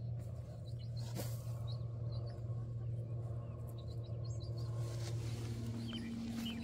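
Small birds chirping in short calls over a steady low hum, with a second, slightly higher steady drone joining about five seconds in.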